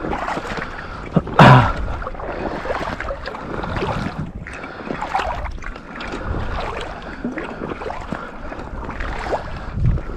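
Water sloshing and splashing as a hunter wades through a lake, with wind on the microphone. One loud splash comes about a second and a half in.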